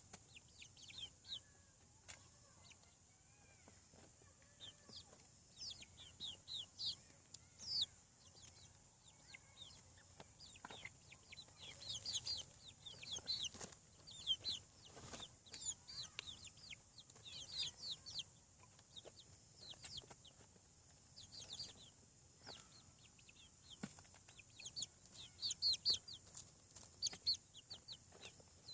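A flock of seven-week-old chickens peeping: many short, high, falling peeps that come in bursts, with busier spells midway and near the end.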